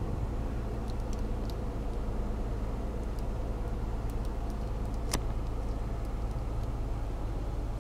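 A 2002 Lexus car idling steadily, heard from inside the cabin as a low, even hum. There is one sharp click about five seconds in.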